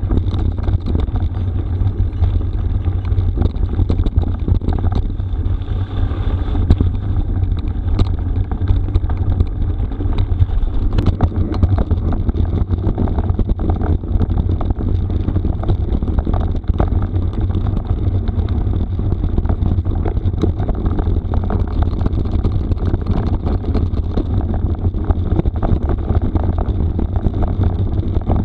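Wind rumbling over the camera microphone as a mountain bike rides a rough gravel forest road, with constant clattering and rattling from the tyres and bike over the stones.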